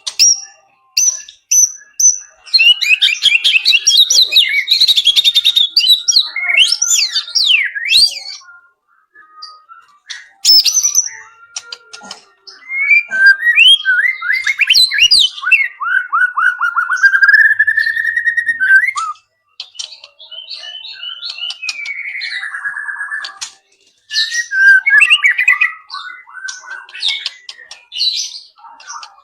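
White-rumped shama singing in long, varied phrases of rapid chattering trills, sliding whistles and high notes, its song full of imitations of other wild birds. Short pauses fall between phrases.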